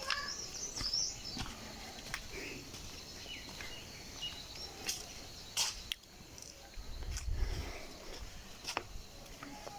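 Birds chirping over quiet outdoor background noise. Scattered sharp clicks run through it, and a brief low rumble comes about seven seconds in.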